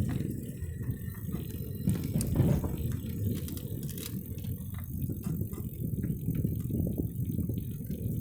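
Bicycle ride heard from the bike itself: a steady, uneven low rumble, the kind wind buffeting the microphone makes, with scattered light rattles and clicks from the bike over the road surface.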